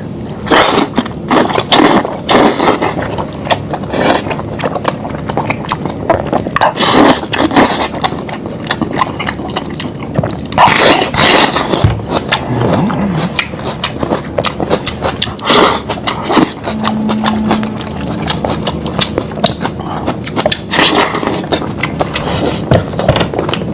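Close-miked eating sounds of a person chewing lamb meat: a steady run of mouth smacks, clicks and sucking noises.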